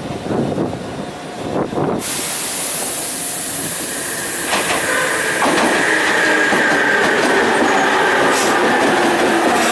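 Tobu Railway train running at the station, with a loud rumble. A sudden hiss cuts in about two seconds in, and from about halfway through a steady high squeal joins it.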